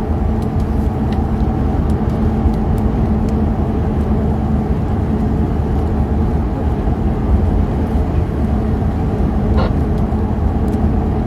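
Car driving at speed: steady road and engine noise with a constant low drone, heard inside the cabin.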